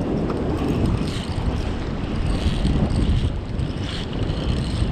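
Strong wind buffeting the microphone: a dense, steady rumble heaviest in the low end, rising and falling slightly with the gusts.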